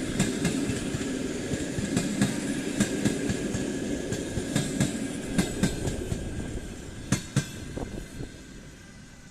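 Mail-and-baggage train cars rolling past, their wheels clacking over rail joints over a steady rumble. A last loud pair of clacks comes about seven seconds in, then the rumble fades away.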